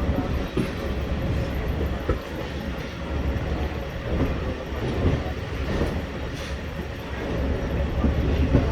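Train rolling into the station: a steady low rumble with irregular knocks of the wheels over the rail joints.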